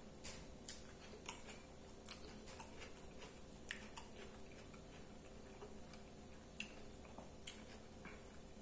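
Faint, irregular wet clicks and smacks of a mouth chewing a bite of hamburger, over a low steady hum.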